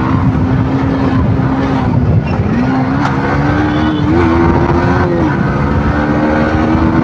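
Yamaha motorcycle engine running while riding in traffic, its note shifting with the throttle and gears. It drops about two seconds in as the bike slows into second, climbs again as it accelerates, and falls back a little after five seconds as it shifts up.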